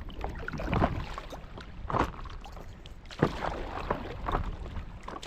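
A paddle dipping and pulling through lake water, with splashes about a second apart and a low wind rumble on the microphone.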